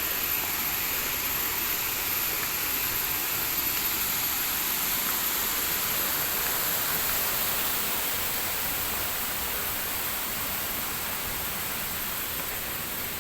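Rushing water, a steady hiss of falling or fast-flowing water, as from a waterfall.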